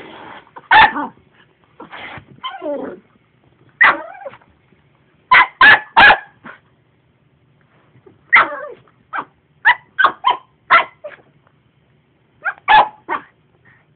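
Black poodle barking repeatedly at a vacuum cleaner: sharp barks in irregular clusters of two to four, with one drawn-out falling bark near three seconds in. The vacuum's steady running noise cuts off about half a second in.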